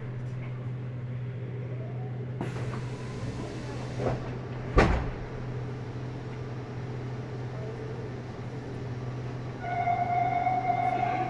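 Meitetsu 100 series electric train heard from inside the car: a steady low hum, a single sharp knock about five seconds in, and a steady high-pitched tone in the last second and a half.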